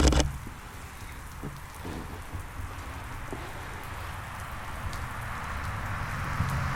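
Steady rain falling, growing gradually louder toward the end, with a low steady hum underneath. A single sharp thump comes right at the start.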